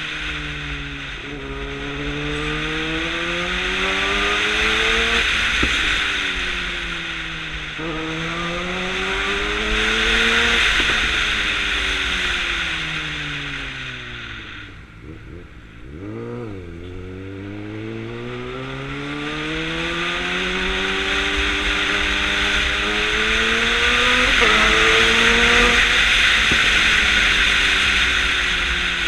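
2009 Suzuki GSX-R600's inline-four engine under way, its pitch climbing and then dropping sharply with each upshift, three times in the first half. About halfway the revs fall away, then a quick blip, and it pulls up through the revs again with another shift near the end. A rushing noise rises and falls along with it.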